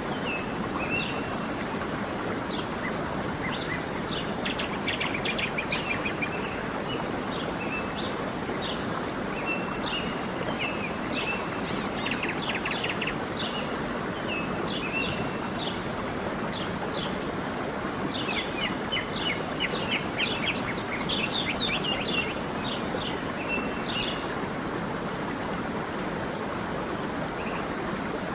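Steady rush of a flowing stream, with small songbirds chirping over it. There are bursts of rapid trilling near the middle and again in the later part.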